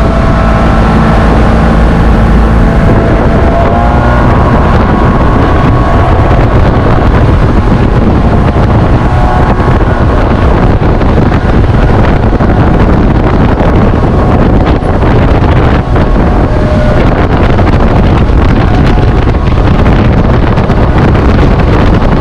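Motorboat under way, its engine and the rush of water making a loud, steady noise, with wind buffeting the microphone.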